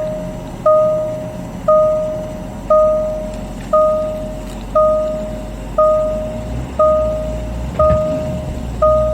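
Jaguar XJ's in-car warning chime sounding a single bong about once a second, nine times, each fading out before the next, over the low steady run of the engine.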